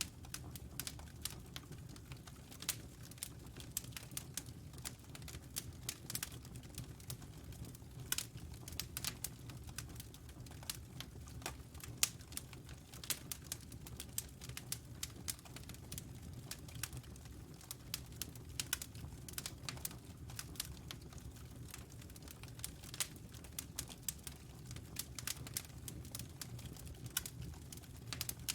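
Wood fire burning in a fireplace: irregular sharp crackles and pops over a steady low rumble of the flames, with one louder pop about twelve seconds in.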